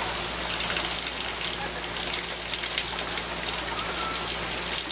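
Steady rain falling and splashing on the ground, an even hiss.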